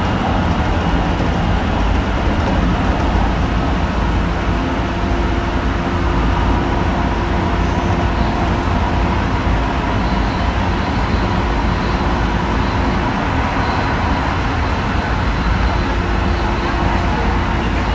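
Tsukuba Express electric commuter train running at speed, heard from on board: a steady rumble of wheels on rail, with faint steady tones over it and a high hiss that comes and goes in the second half.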